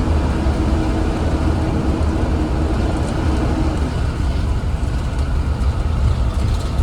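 Inside a Blue Bird Vision school bus under way: a steady low engine rumble and road noise, with a steady hum that stops about four seconds in.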